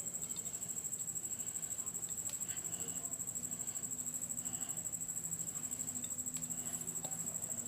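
Hands mixing maida flour with water into dough, giving faint soft rubbing and a few light ticks. A steady high-pitched electronic whine runs under it and is the most prominent sound.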